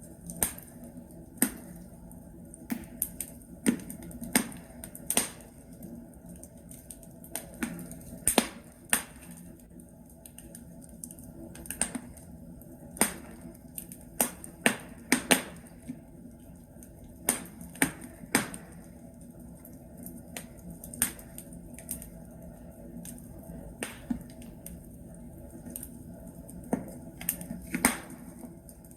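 Burning logs crackling in a fireplace: irregular sharp pops and snaps, several a few seconds apart, over a low steady hiss.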